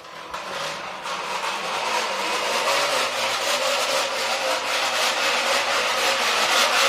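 Drink can against a turning bicycle wheel's spokes, rattling in a fast, dense clatter that grows louder over the first two seconds and then holds steady.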